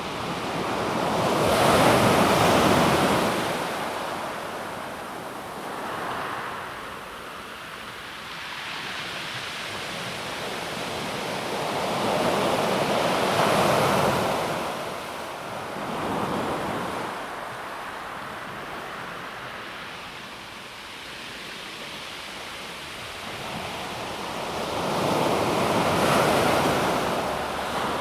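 Calm sea waves washing in and out on a pebble beach. Three larger waves break about every twelve seconds, with smaller ones between them.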